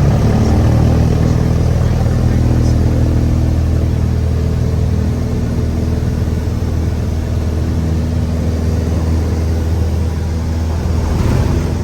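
Cessna 172's piston engine and propeller droning steadily, with a slight swell near the end.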